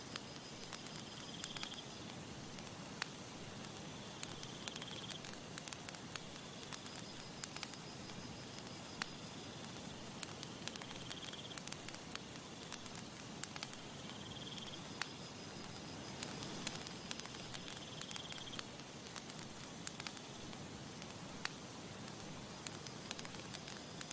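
Wood campfire crackling, with frequent sharp pops and snaps over a steady hiss. Faint high insect trilling swells and fades every few seconds behind it.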